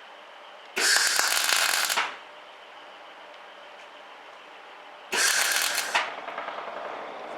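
Semi-automatic (MIG) welder arc crackling in two short welds of about a second each, some four seconds apart, fusing a steel patch plate onto a Suzuki Jimny JB23's bulkhead.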